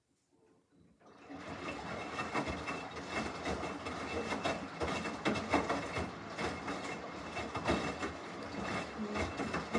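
Samsung washing machine turning its drum mid-wash: a stretch of rapid, irregular clattering and swishing that starts about a second in.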